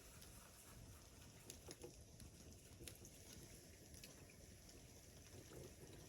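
Near silence: faint background hiss with a few scattered, faint clicks.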